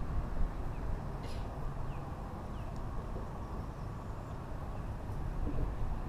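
A steady low rumble, with a few faint short bird chirps about two seconds in.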